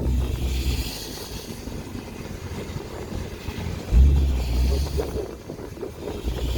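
Inside a car being driven on a wet track: low engine and road rumble with a hiss that swells and fades, and a sudden heavier low rumble about four seconds in.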